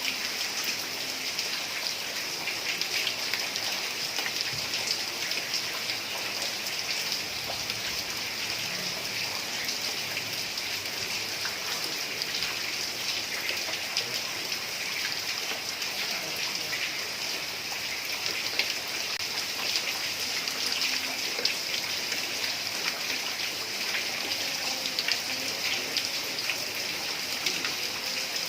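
Heavy rain falling steadily on a tile roof: an even hiss with a dense patter of individual drops.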